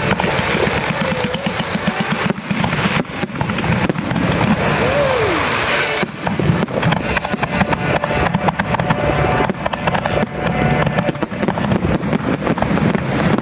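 Fireworks display going off without a pause: a dense run of bangs and crackles.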